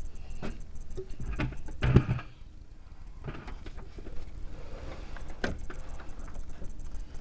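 Metal hand tools and bolts clinking and clattering during work on the truck, with a louder clank about two seconds in.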